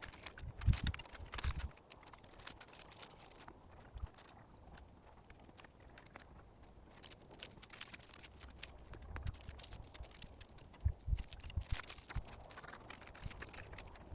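Dry dead strawberry leaves rustling and crackling as they are pulled and gathered by hand, in an irregular run of small crunches, with a few low thumps near the start and again around the middle.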